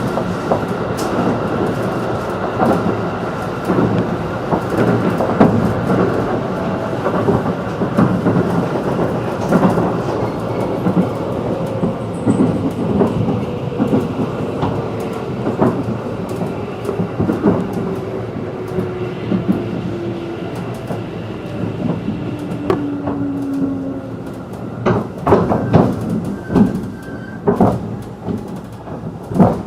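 Running sound inside a JR 211 series electric train: a steady rumble of wheels on rail with scattered clicks at the rail joints. Through the middle, a tone falls slowly in pitch. Near the end comes a quick run of sharp clacks.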